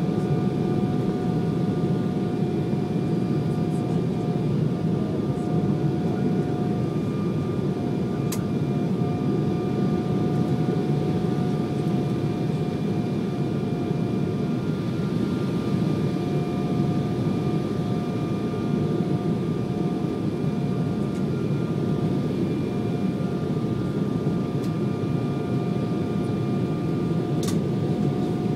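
Jet airliner cabin noise in flight: a steady roar of the engines and the air rushing past, with a held whine over it. There are two faint brief clicks, one about 8 seconds in and one near the end.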